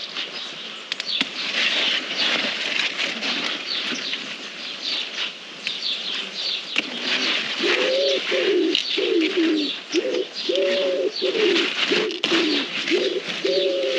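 A bird giving low, repeated calls, about two a second, starting about halfway through, with quicker high chirps running throughout.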